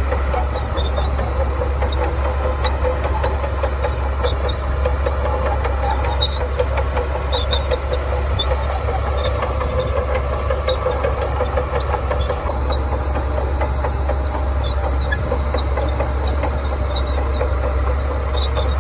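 Shantui bulldozer's heavy diesel engine running steadily under load, a continuous low drone with a rough, knocking edge.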